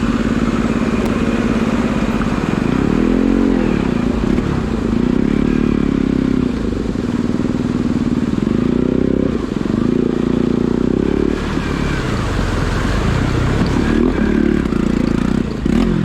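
Single-cylinder Bajaj Pulsar NS200 motorcycle engine running under way, its pitch rising and falling again and again as the throttle is opened and closed.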